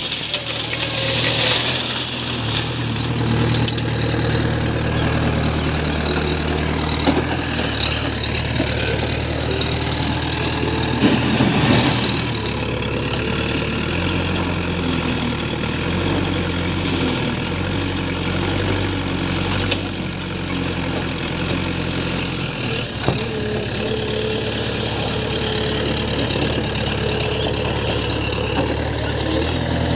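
Diesel engine of a JCB 3DX backhoe loader running and changing speed as it works, its pitch stepping up and down several times, with a few short knocks along the way.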